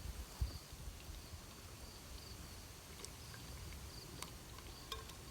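Faint insects chirping in short, high pulses, about two a second, over a low rumble. A single soft knock comes about half a second in.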